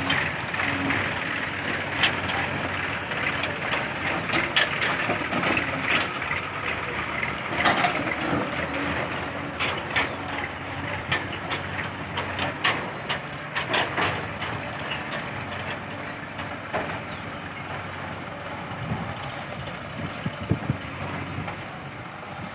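Diesel engine of a JCB 3DX backhoe loader running while it loads mud into a tractor trolley, with many sharp clanks and knocks, most of them in the middle third.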